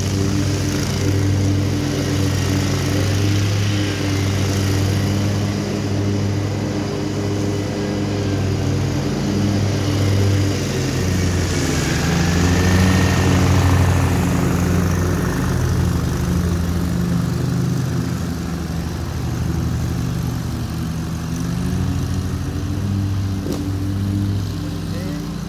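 Lawn mower engine running steadily, swelling louder for a few seconds around the middle.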